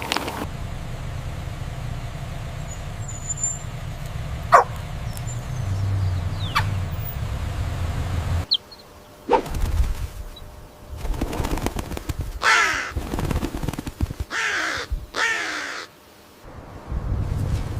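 A bird giving a run of loud, harsh cawing calls, each falling in pitch, bunched in the last third. Before a sudden cut about halfway, there is a low steady rumble with a few short thin chirps.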